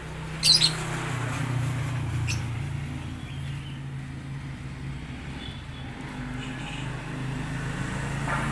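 Lovebird giving short, sharp, shrill calls, the loudest about half a second in and another about two seconds in, over a steady low hum like an engine running.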